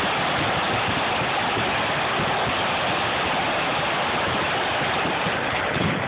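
Fireworks grand finale: many shells bursting and crackling so close together that they merge into one continuous, steady din.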